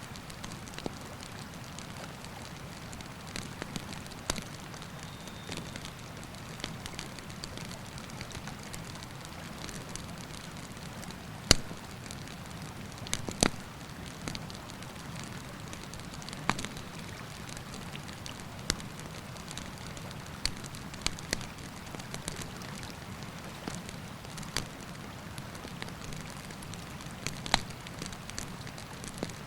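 Wood campfire crackling, with scattered sharp pops over a steady rushing hiss of the river; two louder snaps come near the middle.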